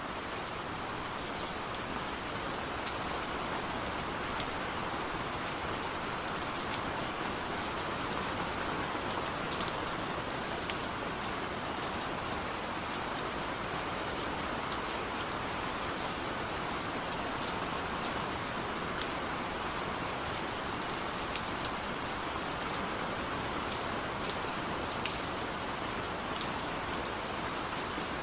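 Steady rain falling: an even hiss with scattered sharp taps of single drops throughout. No thunder.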